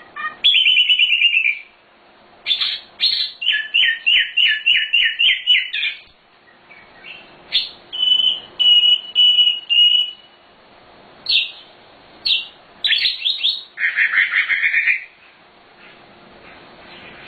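Sikatan londo (flycatcher) songbird singing a varied, loud song in separate phrases: fast runs of repeated down-slurred notes, a string of steady whistled notes about eight seconds in, sharp single notes, and a buzzy phrase near the end.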